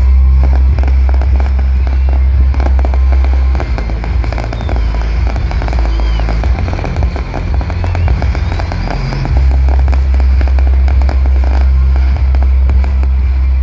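Fireworks display: a dense run of crackling and popping from bursting shells, thickest through the middle, over music and a heavy steady low rumble.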